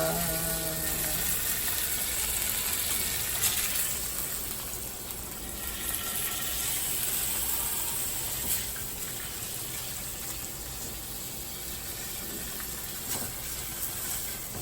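Food sizzling steadily in a frying pan, gradually getting quieter.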